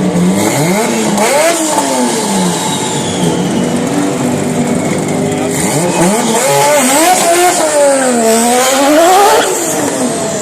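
Nissan Skyline R34 GT-R's RB26 twin-turbo straight-six revving hard, its pitch climbing and falling again and again, with a long climb, dip and climb near the end before the revs drop suddenly.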